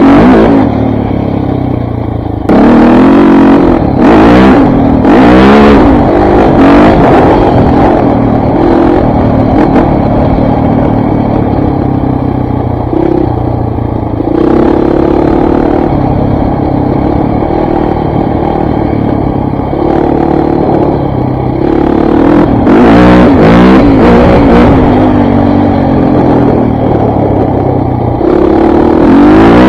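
KTM 400 MXC dirt bike's four-stroke single-cylinder engine being ridden, running loud. It revs up and down several times in the first few seconds and again past the middle and near the end, holding steadier in between.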